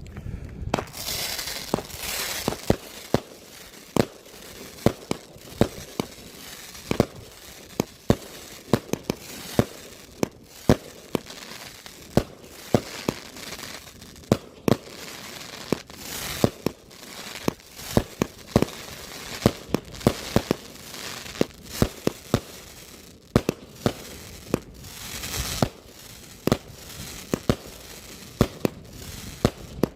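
A multi-shot firework cake (Odyssey) firing a long, irregular string of sharp bangs, about one or two a second, over a steady hiss and crackle. Louder stretches of hissing and crackling come about a second in, near the middle and again toward the end.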